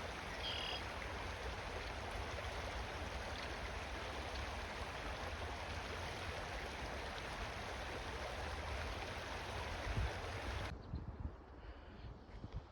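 Steady rush of flowing stream water that cuts off abruptly near the end, giving way to quieter wind buffeting the microphone.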